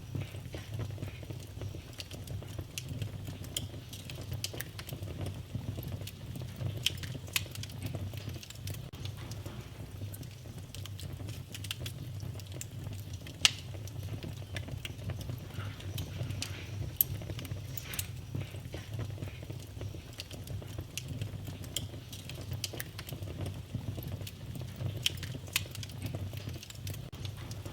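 Wood fire crackling in a fireplace: a steady low rumble of flames with scattered, irregular sharp pops, the loudest about halfway through.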